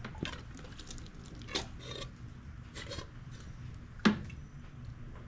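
Small clicks and rubbing from parts and tools being handled, with one sharper knock about four seconds in.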